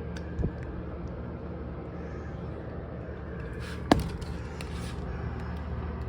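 Steady low background hum, with a short dull thud about half a second in and a single sharp click or knock near four seconds, the loudest sound.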